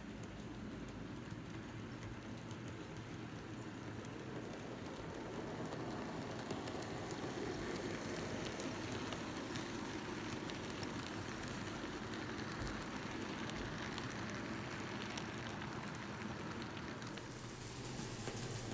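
N gauge model train running on the layout's track: a steady noisy running sound that grows louder over the first several seconds, with a brighter hiss coming in near the end.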